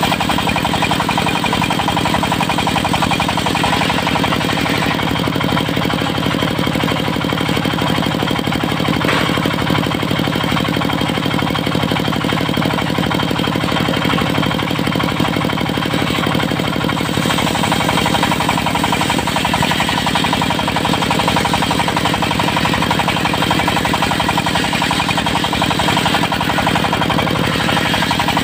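Diesel engine of a mobile circular sawmill running steadily, with a rapid, even beat and no letup.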